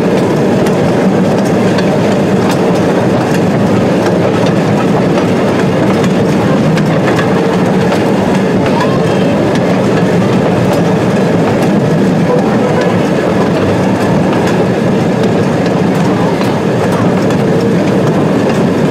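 Train running along the track, heard from an open car behind a small locomotive: a steady rumble of engine and wheels, with wheel clicks over the rail joints.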